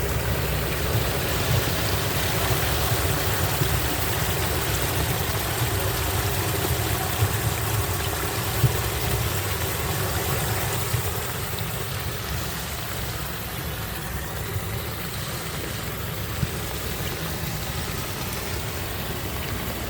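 Floodwater rushing and gurgling steadily down a storm drain through a whirlpool, over a constant low rumble. It gets a little quieter about halfway through.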